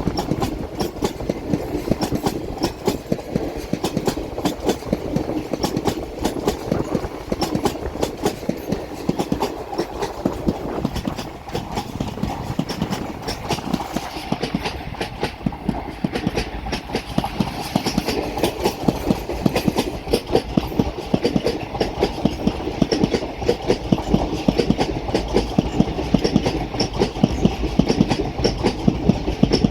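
A train passing close by: its wheels clatter over the rail joints in a fast, unbroken run of clicks over a steady rumble, the clicks growing a little louder in the second half.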